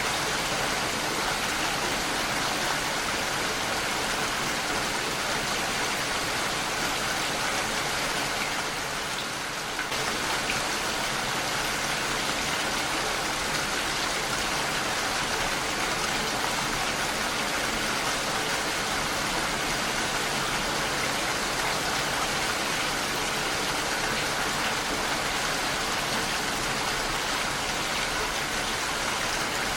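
Heavy rain falling steadily and pattering on a window pane, an even hiss with a brief slight lull about nine seconds in.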